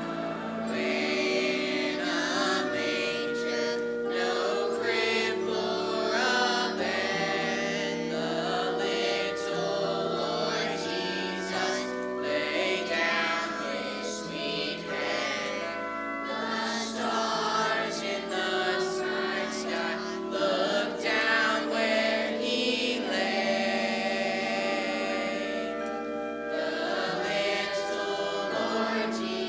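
A choir singing a slow song with instrumental accompaniment, many voices holding sustained notes together.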